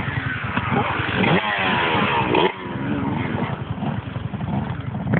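Several motocross bikes racing, their engine notes overlapping and repeatedly revving up and falling away through gear changes. One loud rev climbs and cuts off sharply about halfway through.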